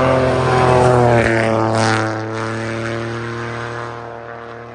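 A WRC rally car's engine droning at a steady high pitch. It drops slightly in pitch about a second in, then fades steadily as the car moves away.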